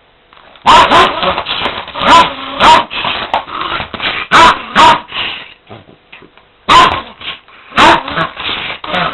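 Shiba Inu barking and growling in loud, sharp flurries that start about half a second in, with a short lull a little past the middle.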